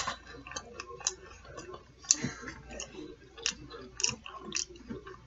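A person chewing food close to the microphone, with sharp wet mouth clicks and smacks at irregular intervals, several a second at times.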